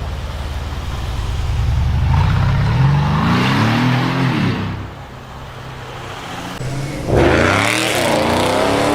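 Loud Mercedes exhaust as the engine revs. The note climbs steadily and falls away about four and a half seconds in, then jumps and climbs again sharply about seven seconds in before cutting off near the end.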